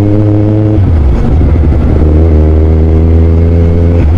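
Kawasaki Z1000 inline-four engine pulling hard under throttle while riding, with an intense, loud note. The engine note breaks off about a second in and again near the end, as at a gear change, settling at a steady pitch in between.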